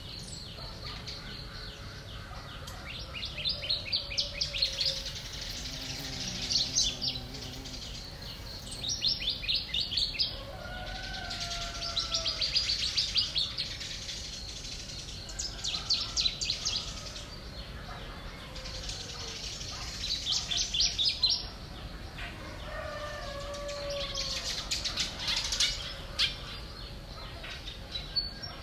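Small birds chirping: bursts of rapid, high chirps every two to three seconds, with softer, lower gliding calls in between.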